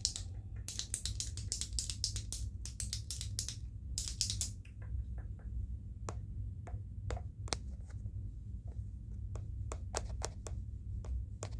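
ASMR clicks and ticks: a fast run of sharp clicks for the first few seconds, then slower, scattered single clicks, over a low steady hum.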